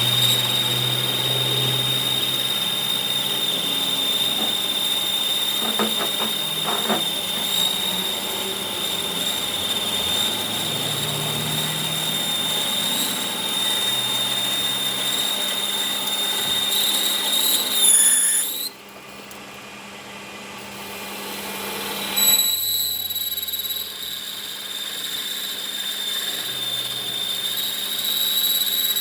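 A power tool running with a steady high whine. It stops suddenly about 19 seconds in and starts again about three seconds later.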